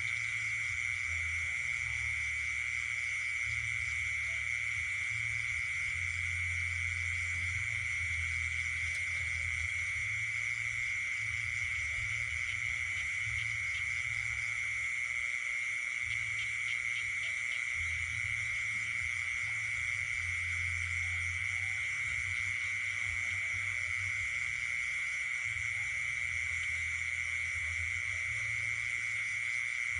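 Night chorus of insects and frogs: insects trill on one steady high pitch throughout, while low frog calls come and go in stretches of a second or more.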